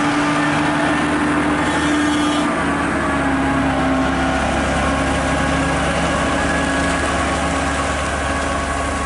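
A vehicle engine running steadily, with a low hum that shifts about two and a half seconds in.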